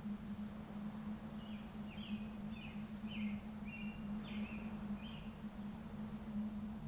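A small songbird sings one phrase of about eight short, high, down-slurred notes, over a steady low hum and an even background hiss.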